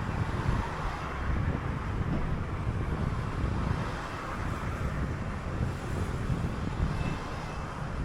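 City bus on the move: steady engine and road rumble, with wind noise on the microphone.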